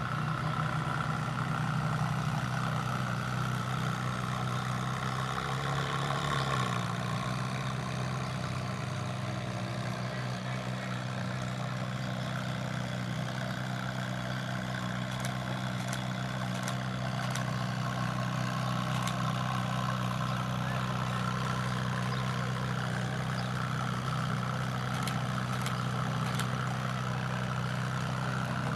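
Car engine idling steadily, its note shifting slightly about six or seven seconds in. A few faint sharp clicks come in the second half.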